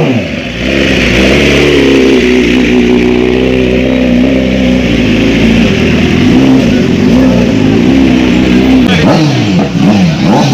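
Motorcycle engine running loud. The revs drop sharply at the start, hold steady with a slight waver, then are blipped up and down several times in quick succession near the end.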